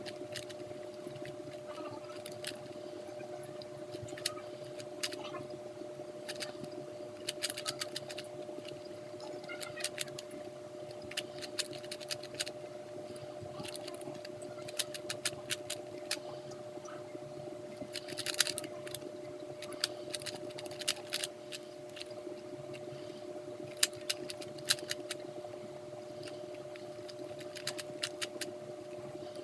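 3x3 speed cube being turned by hand, its layers giving irregular runs of quick plastic clicks with short pauses between, over a steady low electrical hum.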